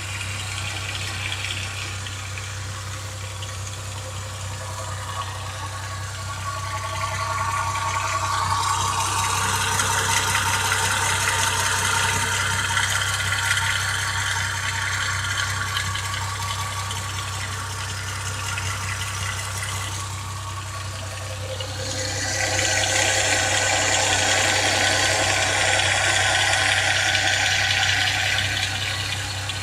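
Car engine idling steadily while the power steering pump twice makes a loud whining hiss, each time lasting several seconds: once from about a quarter of the way in and again near the end. The noise is the sign of a noisy, faulty power steering pump.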